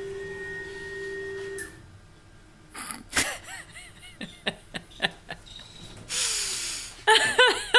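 Small metal parts being handled at a milling machine's coin fixture: a steady tone that stops about a second and a half in, then a run of sharp metallic clicks and taps, each ringing briefly, with a short hiss about six seconds in.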